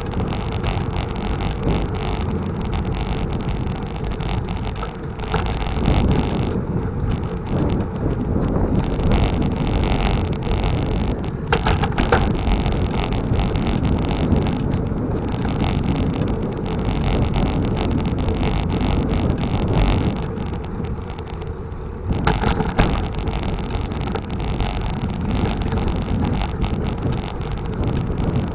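Wind buffeting the microphone while riding a bicycle, a steady low rumble that swells and eases in gusts, with a few short clicks.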